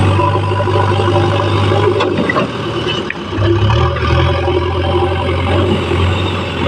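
JCB backhoe loader's diesel engine running steadily under work, easing off briefly about halfway through and then picking up again.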